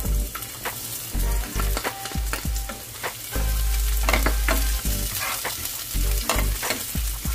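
Chopped onion and garlic sizzling in hot oil in a pan, with a cooking utensil repeatedly clicking and scraping against the pan as they are stirred.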